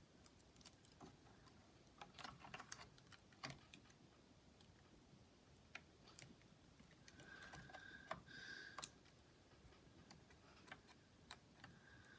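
Faint, scattered small clicks and taps of ribbon-cable and board connectors being unplugged inside an open laptop.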